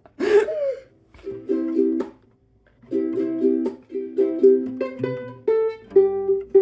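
Acoustic string instrument strummed in short, halting down-up chord strokes by someone still learning the strumming pattern, with a pause about two seconds in and a ringing note near the end.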